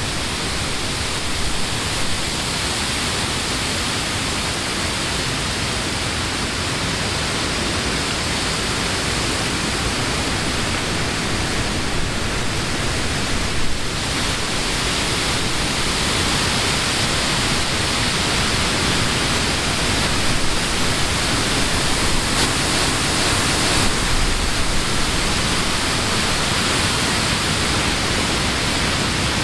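Summer wind blowing through leafy trees: a steady rush of rustling leaves that grows a little stronger in the second half.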